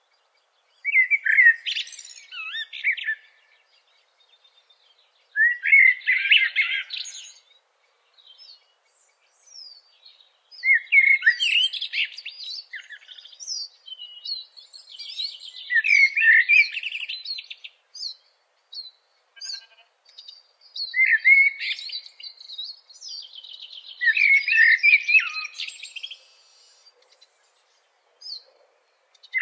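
A songbird singing: short warbling phrases of about two seconds each, with quick rising and falling notes, repeated every five seconds or so with silence in between.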